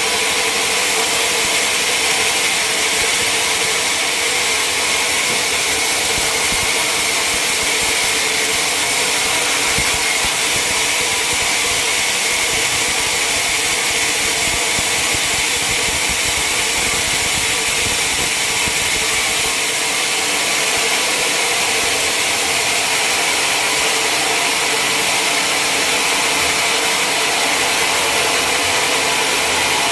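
Sawmill running steadily, its saw cutting through a large mahogany log, with a constant machine drone and no pauses.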